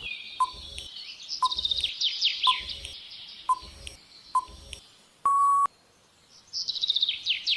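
Quiz countdown timer ticking about once a second over chirping birdsong, then one short steady beep about five seconds in, after which the chirping comes back.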